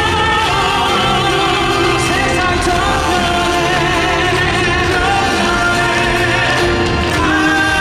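Live vocal performance with accompaniment: voices holding sung notes with vibrato over a full backing.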